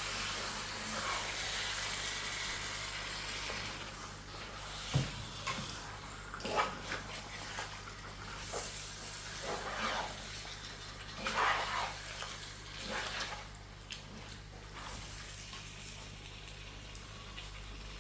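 Seasoned chicken sizzling in hot oil in a pot while it is stirred with a spoon, with scattered scrapes and knocks against the pot. The sizzle is strongest for the first few seconds, then quieter.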